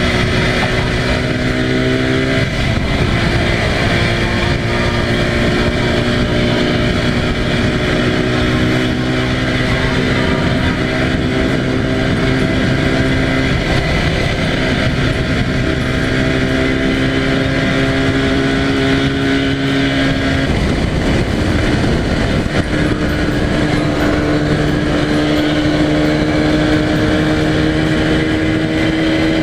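Yamaha TZR250 (1KT) two-stroke parallel-twin engine running at expressway speed over a steady rush of wind. Its pitch climbs slowly, drops away about three times, then climbs again.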